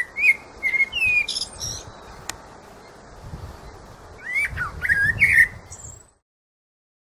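Birds chirping in short, gliding twitters over a steady rushing hiss, in two bouts, one at the start and another about four seconds in; everything cuts off abruptly about six seconds in.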